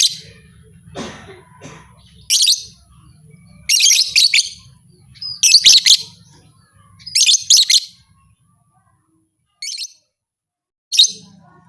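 Lovebird chattering in short bursts of shrill, rapid chirps every second or two, with a brief pause about two-thirds of the way in.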